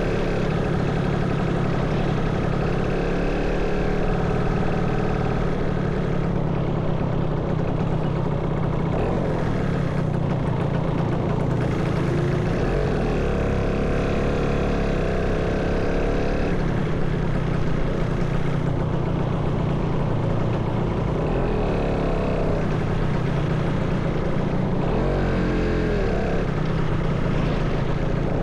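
Motorcycle engine running steadily while riding, with engine pitch rising and falling several times as speed changes.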